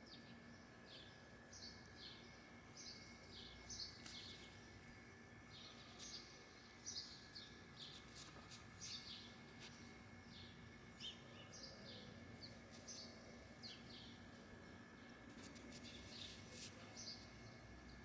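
Faint chirping of a flock of small birds: many short, high, falling chirps overlapping throughout, over a faint steady hum.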